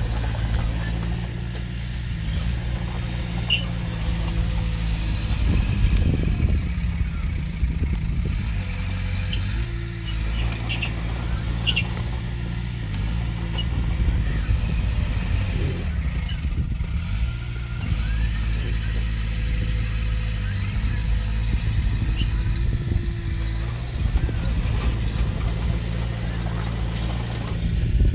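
Diesel engine of earthmoving machinery running steadily under varying load, with scattered light metallic squeaks and clicks, most of them in the first half.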